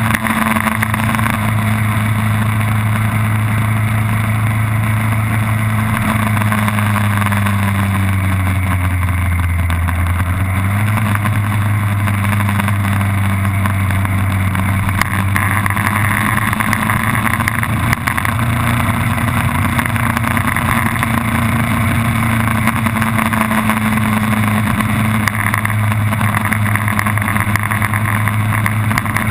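A vehicle's engine running hard at speed on a race track, over a dense rushing noise. Its pitch holds steady, drops for a few seconds about a third of the way in, then climbs back up as it accelerates again.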